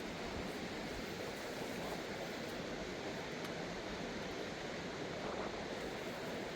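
Steady rushing of a swollen, flooding river, an even roar of water with no breaks.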